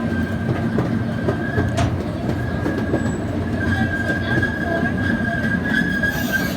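Zoo train running along the track: a steady low rumble with a thin high squeal held throughout, the squeal growing louder about halfway through.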